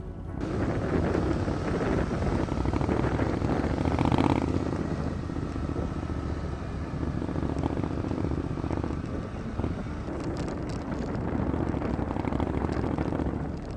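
Motorcycle running while being ridden, its engine drone mixed with wind buffeting the microphone.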